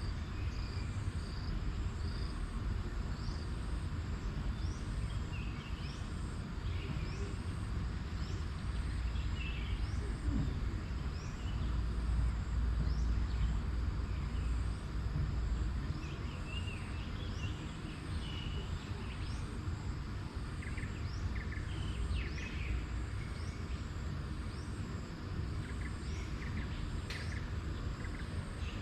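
Outdoor countryside ambience: scattered bird chirps and a high chirp repeating about once a second over a steady low rumble that swells a little in the middle.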